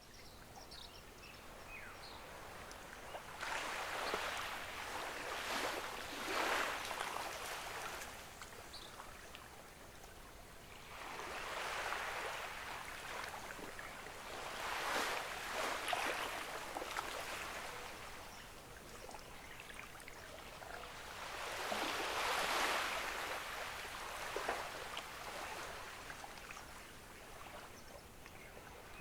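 Gentle ocean waves washing onto a beach. The surf swells and fades three times, each wave building over a few seconds and falling back into a soft hiss.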